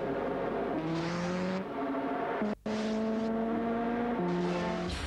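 Nissan 300ZX Turbo's twin-turbo V6 running hard at speed, a steady high engine note that jumps to a new pitch several times, with short rushes of air and tyre noise. The sound cuts out for a moment about halfway through.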